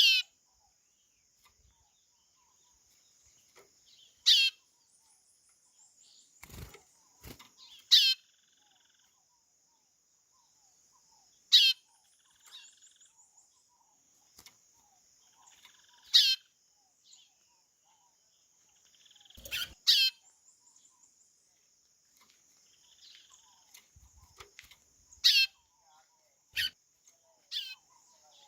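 White-bellied seedeater (chorão) giving short, high, sweeping call notes, one every few seconds, about eight in all, over a steady high-pitched background buzz. Two faint low knocks come about a quarter of the way in.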